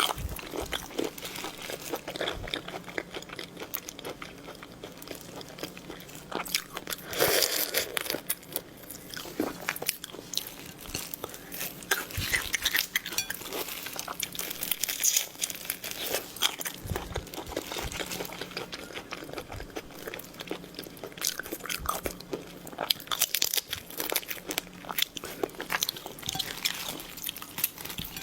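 Close-miked eating of seafood: biting and chewing with many crisp crunches and sharp clicks, steady throughout.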